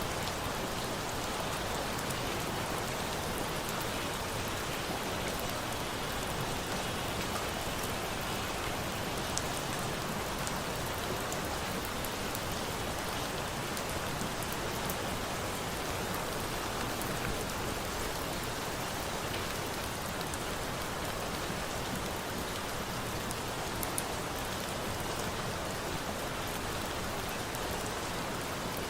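Steady rain falling, an even hiss with a few faint sharp ticks here and there.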